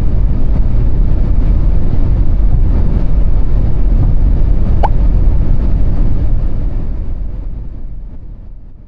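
Steady in-car driving noise of a Renault Austral mild hybrid with its 1.3-litre engine and CVT, a low, dense rumble of engine, tyres and wind at speed, fading out over the last couple of seconds. A brief, thin rising chirp cuts through about five seconds in.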